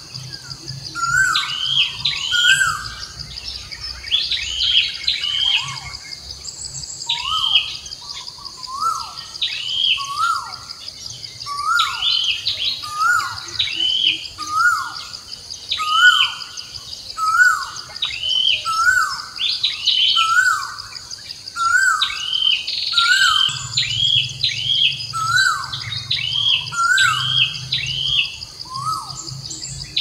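Birds chirping: short down-slurred calls repeated about once a second throughout, over a steady high-pitched buzz.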